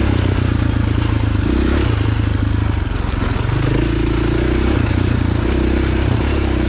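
Dirt bike engine running while it is ridden down a trail, its note shifting up and down every second or two with the throttle.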